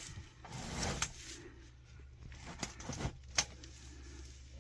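Quiet handling of sheet-metal ductwork: a brief rustle, then a few light clicks and taps.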